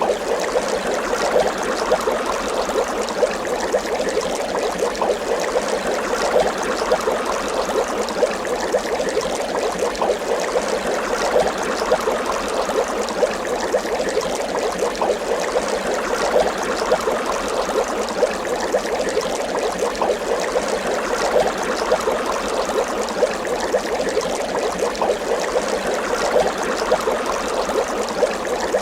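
Water bubbling continuously: a dense, steady stream of small bubble pops and gurgles with no pauses.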